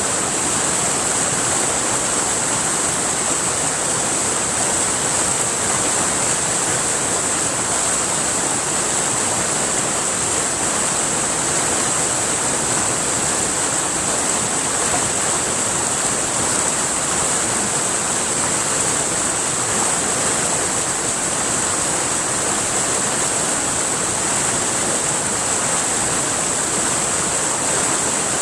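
River water flowing and rushing steadily, an even noise that never lets up, with a constant high hiss above it.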